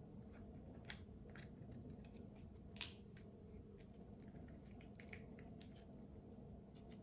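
Faint clicks and cracks of crab-leg shell being cracked and picked apart while eating, with one sharper crack a little under three seconds in.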